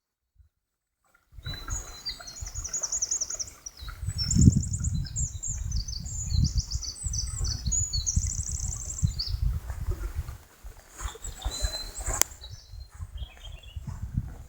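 Songbirds singing in quick, high trilled phrases over an uneven low rumble, cutting in about a second in after silence; a single sharp click comes near the end.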